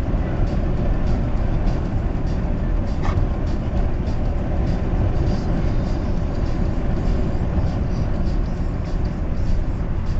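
Steady low rumble of road and engine noise inside a car cruising on a highway.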